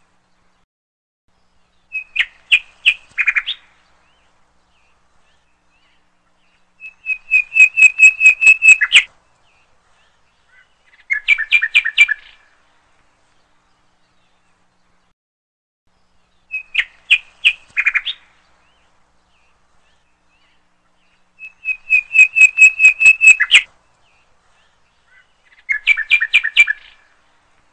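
Bird song in short bursts of rapid, high chirping trills, each lasting a second or two, with a few seconds of quiet between them. The same three-burst phrase repeats exactly about halfway through, as a looped recording does.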